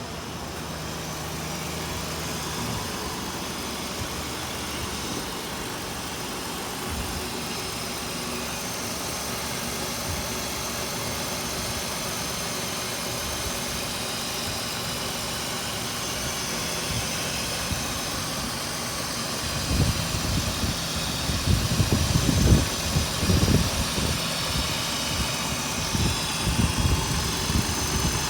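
2005 Jeep Grand Cherokee's 3.7-litre V6 running steadily at idle. Irregular low thumps come in over the last third.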